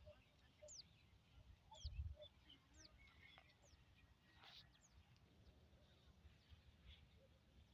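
Faint birdsong: short high calls that slide downward in pitch, repeated roughly every half second, with a brief low rumble about two seconds in.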